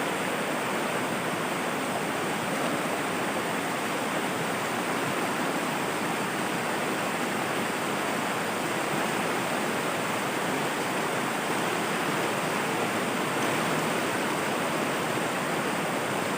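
Rushing water of river rapids: a steady, even rush of flowing water with no breaks.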